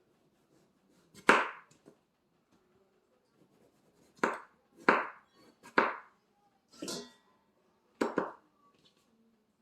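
Knife chopping canary melon on a cutting board: six separate knocks, one about a second in and five more spread over the second half.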